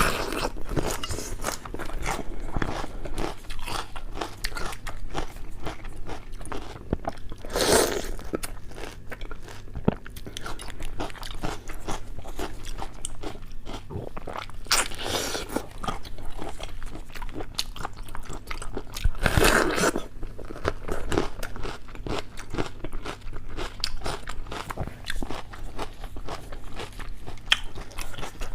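A person eating crunchy food up close, with steady crackling bites and chewing.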